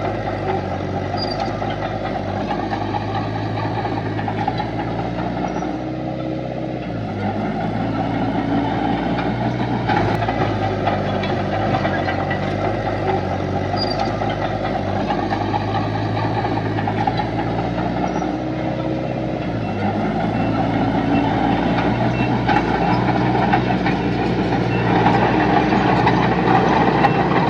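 Heavy diesel engine of earthmoving machinery running steadily, its pitch dipping and rising twice as the load changes, and growing a little louder near the end.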